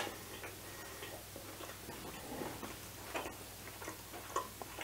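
Quiet chewing of a mouthful of baked quinoa and vegetables, heard as faint, irregular small mouth clicks over low room tone.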